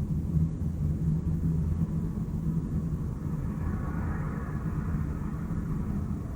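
Steady low rumble of city traffic. A higher hiss swells and fades about halfway through, as something passes.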